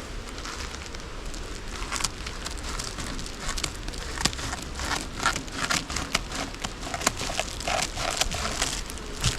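Sheet of aluminium foil crinkling and crackling as it is handled and shaped, a quick irregular run of small crackles that grows denser from about two seconds in.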